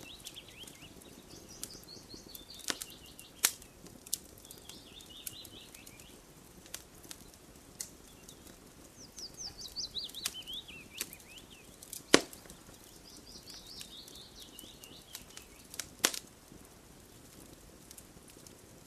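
Campfire crackling with scattered sharp pops, the loudest about twelve seconds in. A songbird sings over it: two long phrases of quick chirps that step down in pitch, one running through the first few seconds and another starting about nine seconds in.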